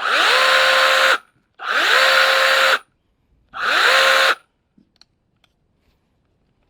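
Cordless electric mini chainsaw triggered three times in short bursts, its motor and chain whining up in pitch and holding steady for about a second each time. The chain has just been sharpened and re-tensioned.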